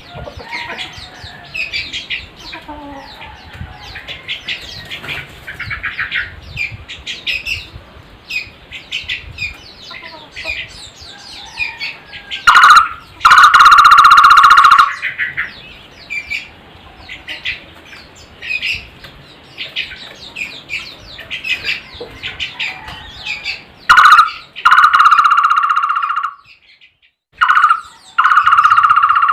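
Takur (barbet) calling in three loud bouts of rapid, evenly pulsed low notes, each starting and stopping abruptly, over a background of smaller birds chirping.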